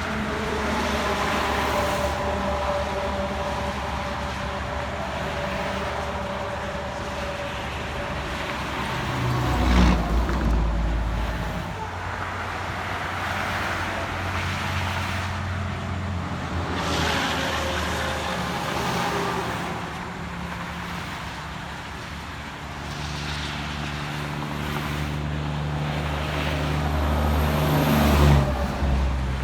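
Road traffic passing: vehicles going by one after another with engine hum and tyre noise. The loudest passes come about ten seconds in and again near the end.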